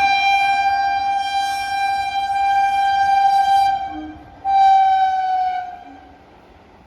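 Train horn sounding two blasts: a long one of nearly four seconds, then after a short break a shorter one whose pitch sags slightly as it ends.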